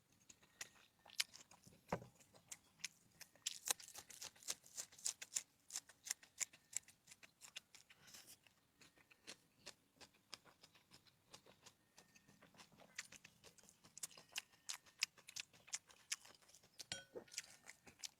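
Close-miked chewing and mouth sounds of someone eating: a dense, irregular run of sharp, crisp clicks and smacks.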